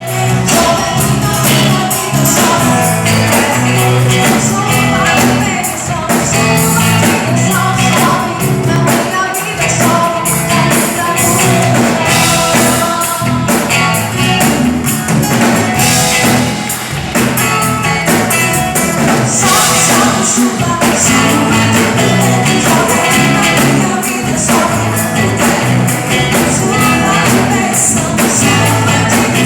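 Church worship band playing a gospel song with singing, loud and continuous.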